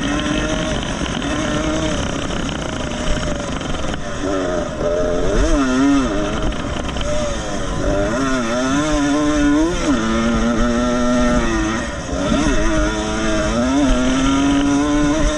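Vintage 125 cc two-stroke motocross motorcycle engine being ridden hard, its pitch climbing and dropping repeatedly with throttle and gear changes.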